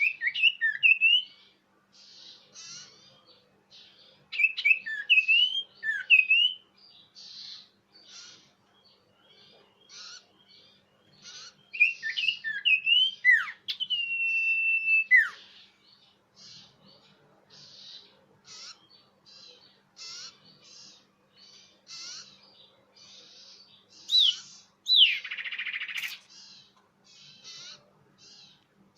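Common iora (cipoh) song from a bird-lure recording, clear and loud: four bouts of quick up-and-down whistled notes. One bout ends in a long held whistle and a falling note about 14 s in. The last, near the end, has falling notes and a harsh rasp. Faint short chirps fill the gaps over a low steady hum.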